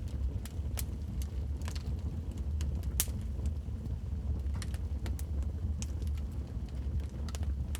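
Wood fire crackling in a fireplace: irregular sharp pops and snaps, one louder snap about three seconds in, over a steady low rumble of the burning fire.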